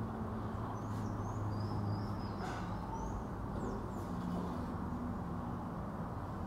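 Small birds chirping, several short high chirps in the first few seconds, over a steady low hum, with a faint knock or two as a wooden board is handled.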